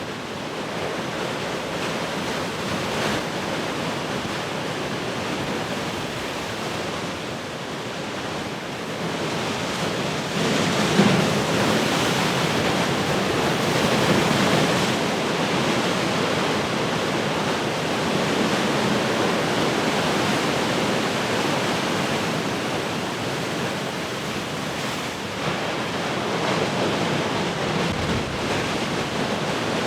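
Heavy ocean surf: waves breaking and washing in a continuous rush that swells to its loudest about ten seconds in, with one sharper crash near then.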